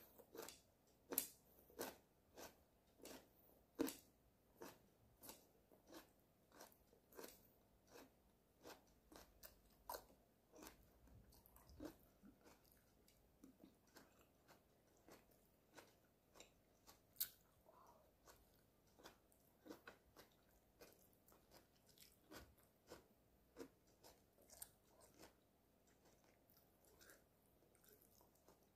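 A person chewing crunchy stir-fried Chinese broccoli and beef, with crisp bites and crunches about one to two a second that thin out in the second half.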